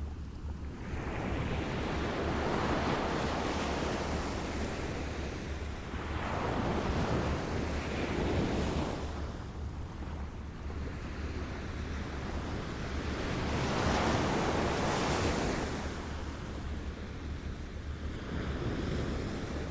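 Small waves lapping on a shore: a wash of water that swells and falls back every few seconds, about four times, over a steady low rumble of wind on the microphone.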